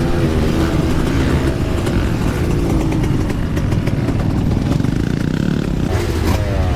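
Yamaha YZ125 single-cylinder two-stroke dirt bike engine under riding load: the revs drop over the first couple of seconds, hold lower, then climb again near the end. Heavy low rumble runs underneath throughout.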